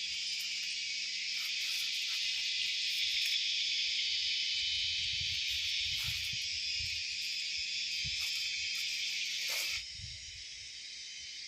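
Steady, dense chorus of insects, a high shrill buzz that holds without a break; it drops noticeably in level near the end.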